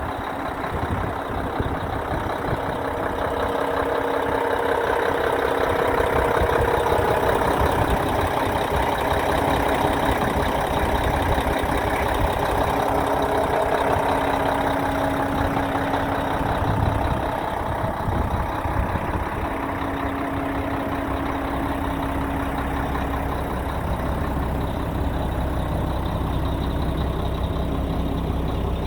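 2001 Mack CH613 semi truck's diesel engine running steadily at idle, a little louder for a stretch through the middle.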